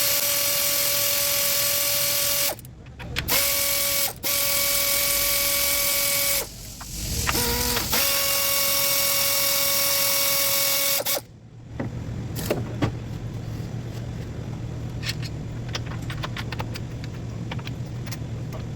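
A handheld power tool, drill-type, runs at a steady high pitch in four long runs with short breaks between them, as parts are removed from the engine. It stops about eleven seconds in, and after that come light clicks and taps of metal parts being handled over a low hum.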